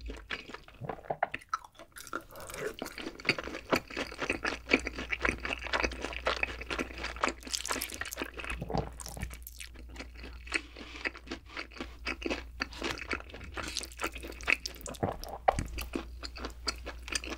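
Close-miked chewing of fried chicken dipped in cheese sauce: a dense, irregular run of crackly crunches and wet chews.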